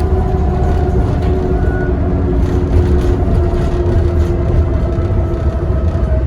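Diesel bus engine and road rumble heard from inside the bus while cruising, with steady whining tones that drift slowly in pitch: the bus's turbocharger whistle.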